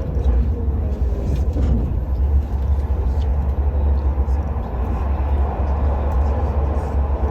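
Steady low rumble of a moving vehicle heard from inside, with no sudden events.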